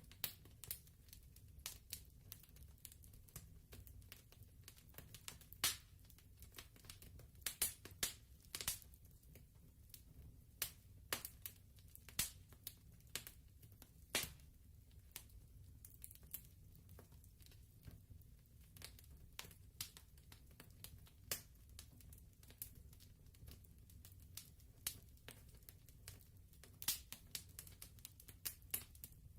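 Wood fire crackling softly: irregular sharp pops and snaps, several a second, over a low steady rumble.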